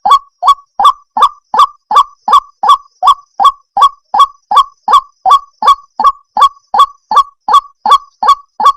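White-breasted waterhen (ruak-ruak) calling: a loud, steady, unbroken series of short harsh notes, about four a second.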